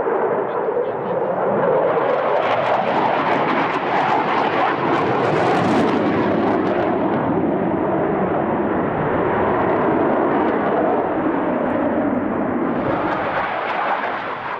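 JAS 39 Gripen fighter's single Volvo RM12 turbofan engine roaring in a display flight. It is loud and continuous, with the pitch sliding as the jet moves, and drops away near the end.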